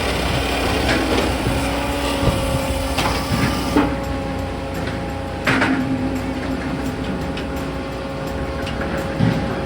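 Firewood processor running: the 74 hp turbocharged Doosan diesel and its hydraulics hum steadily, broken by several sharp clanks and knocks of logs and steel as it works. The loudest knocks come about halfway through and near the end.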